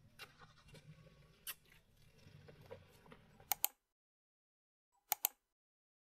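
Faint low background rumble with small scattered clicks, cutting off abruptly to dead silence about three and a half seconds in. Sharp camera-shutter double clicks come just before the cut and again about a second and a half later.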